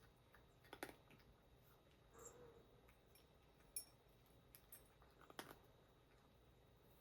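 Near silence with a few faint clicks and taps, and one faint short cat meow about two seconds in.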